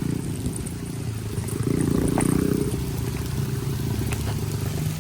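Small dirt bike engine running, getting louder about two seconds in and then easing back.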